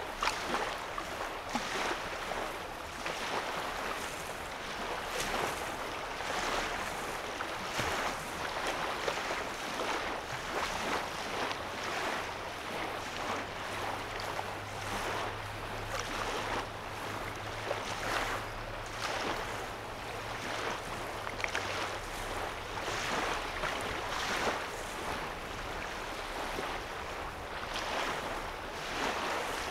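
Small waves lapping on a lake shore, soft splashes every second or two over a steady wash of water. A faint low hum, such as a distant engine, comes in from about twelve seconds in and fades out about ten seconds later.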